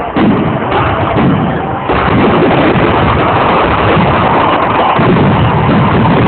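Fireworks bursting in a rapid barrage: many quick bangs for about two seconds, then running together into a dense continuous crackle.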